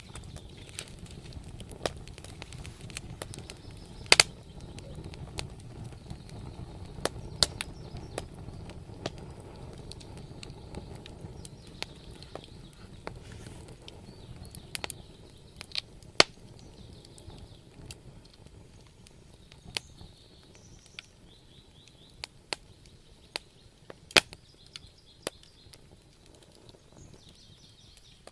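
Wood fire in a fireplace crackling: irregular sharp pops and snaps, a few much louder than the rest, over a low steady rumble of the flames that eases off in the second half.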